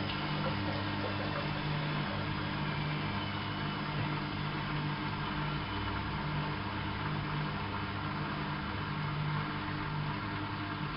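Bauknecht WAP 6460 front-loading washing machine running, its drum motor giving a low hum that shifts between two pitches every second or two.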